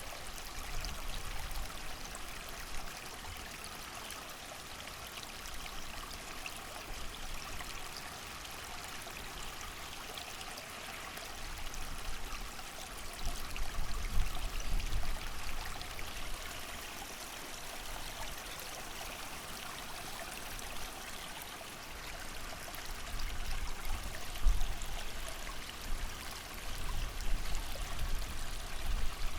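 A creek running steadily with rain falling, and low gusts of wind swelling up in the middle and again from about two-thirds of the way through.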